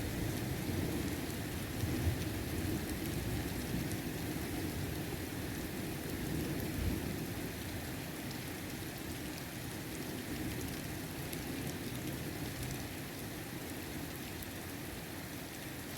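Heavy rain falling steadily, with a low rumble of thunder through the first half that fades away.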